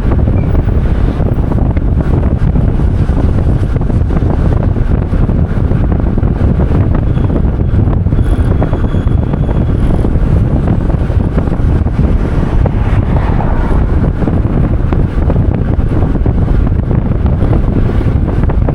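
Wind buffeting the microphone: a loud, steady low rumble with no pitch to it.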